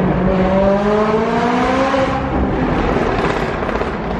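McLaren sports car's engine pulling under hard acceleration, its pitch rising steadily for about two seconds and then easing off. Heard from inside the cabin, echoing off the walls of a road tunnel.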